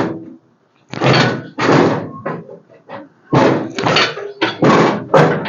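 Irregular run of short metallic clunks and scrapes as a Ford 5.0-litre engine and its transmission shift on the hoist chains while being worked out of the engine bay.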